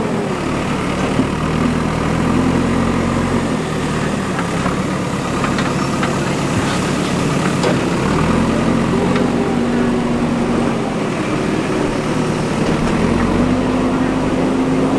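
JCB 3DX backhoe loader's diesel engine running and revving up and down in turn as it works. A few light clanks come through near the middle.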